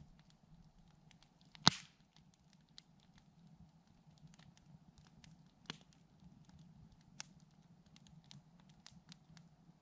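Wood campfire crackling softly with scattered small ticks, broken by one sharp, loud pop of burning wood a little under two seconds in and two smaller pops later.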